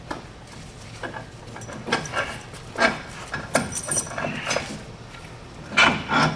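Metal tools and parts clinking and knocking as a wheel hub and axle are worked on: a string of separate sharp clinks and knocks, a few with a bright metallic ring.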